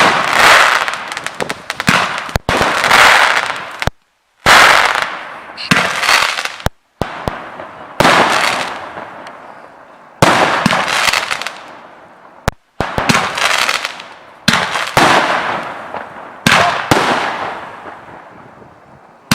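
A 96-shot multi-calibre consumer firework battery firing: about a dozen loud bangs a second or two apart, each followed by a fading hiss.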